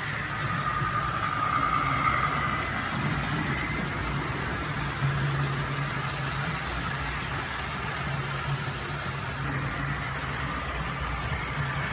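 HO-scale model train running on the layout track: a steady low hum under a rushing noise, with a fainter higher whine in the first couple of seconds.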